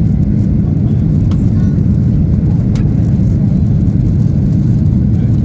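Steady low rumble of a Boeing 737-800 in flight, heard inside the passenger cabin: the CFM56-7B engines and the airflow over the fuselage.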